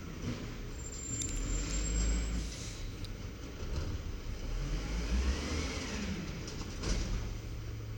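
WhiteGMC diesel garbage truck engine running, its pitch rising and falling about halfway through, with a brief thin high squeal early on and a sharp click near the end.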